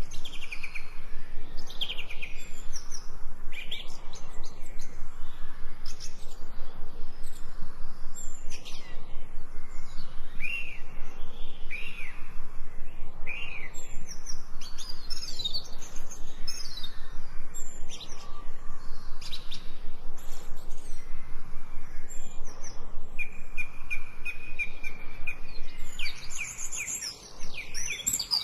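Birds chirping and singing, many short rising and falling calls over a steady low hiss, with a held high whistle near the end.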